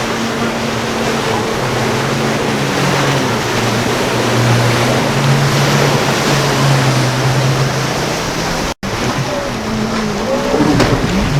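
Motorboat engine drone over rushing water and surf, the engine tone rising a little midway. It cuts off abruptly about nine seconds in, and different sounds with a wavering pitch follow.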